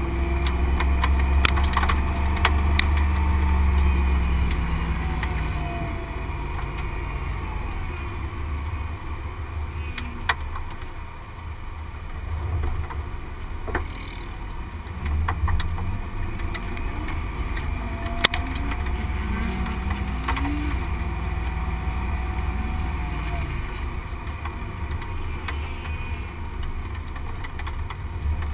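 Drift car's engine heard from a camera mounted low on its outside, rising and falling in pitch over a heavy low rumble, loudest in the first few seconds and easing off briefly about halfway through. A few sharp clicks cut through.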